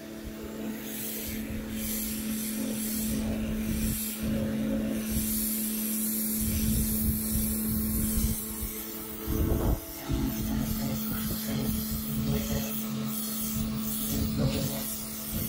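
Electric pressure washer running, its motor and pump humming steadily while the water jet hisses against the patio surface. The hum briefly cuts out about two-thirds of the way through, then starts again.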